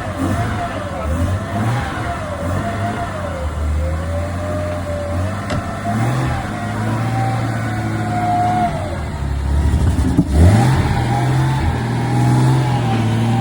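A classic car engine running and being revved, its pitch rising and falling, with a sharp climb about ten seconds in. A thin wavering whine sits above it.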